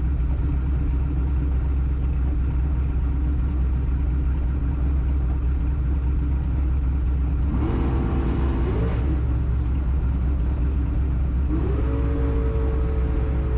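Twin-turbo LS V8 in a Cutlass idling with a steady deep rumble, heard from inside the car. About halfway through the revs climb briefly and drop back, and near the end they rise again and hold higher.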